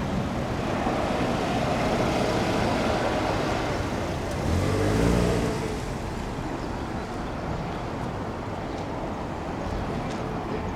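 Road vehicle noise. About five seconds in, an engine swells briefly as a vehicle passes or accelerates, then fades back into the steady background.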